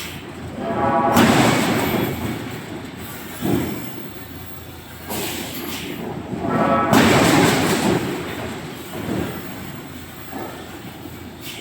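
Loud, rumbling forging-shop machinery noise that swells up and dies away in long surges, loudest about a second in and again around the middle, with a shorter sharp rise in between.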